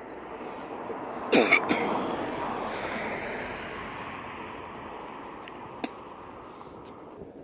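An aircraft passing by, its noise swelling to a peak about a second and a half in and then fading slowly, with a few sharp loud knocks right at the peak.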